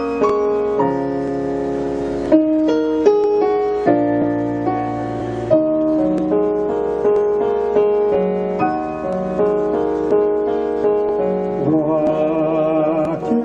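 Slow piano introduction to a song, sustained chords and melody notes struck a few times a second; near the end a singing voice with a wide vibrato comes in over the piano.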